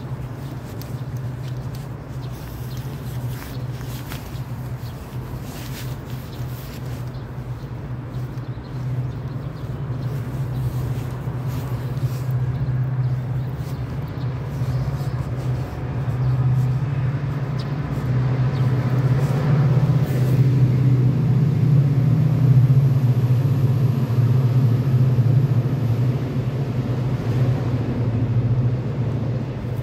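Electric commuter train passing on a steel overhead bridge: a steady low drone that grows louder about halfway through, peaks around two-thirds of the way, then eases slightly.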